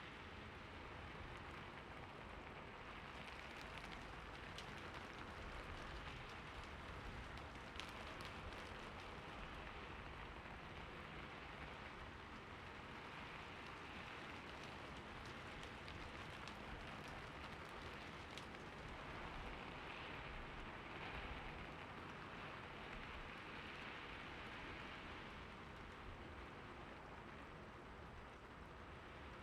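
Steady, soft rain falling on a surface, with a dense patter of fine drops.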